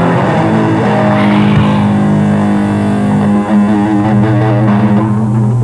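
Distorted electric guitars holding heavy sustained chords in a slow metal song, with a change of chord about halfway through.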